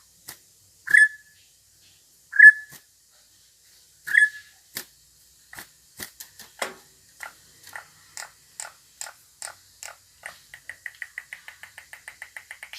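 Small cage songbird singing: three loud, sharp chirps, then a run of short notes that quickens into a rapid trill of several notes a second near the end.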